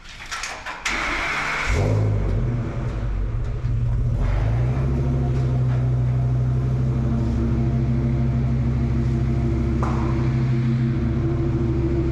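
Ford Super Duty truck engine being cranked by the starter, catching about two seconds in, then settling into a steady idle.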